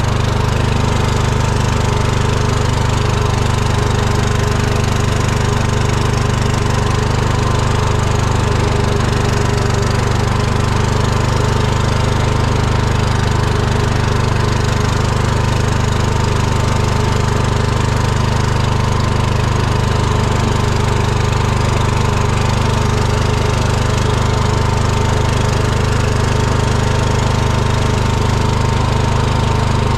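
Riding lawn mower's engine running steadily under way, with a constant whine over the engine note.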